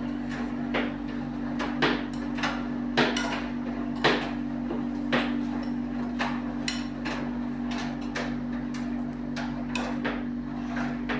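Domus 12 kg commercial washer during a cold main wash: a steady motor hum under irregular knocks and clacks from the tumbling drum, the loudest about two, three and four seconds in.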